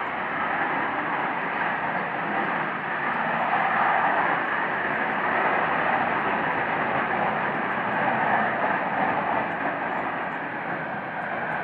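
Loud, steady jet-like noise from the sky, swelling slightly in the middle and easing toward the end. It sounds like jets flying overhead, but the recorder sees no planes making it.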